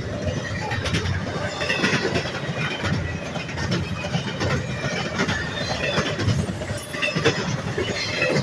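Railroad cars rolling past, their wheels clattering over the rails in a steady rumble of clicks, with scattered short squeaks from wheel on rail.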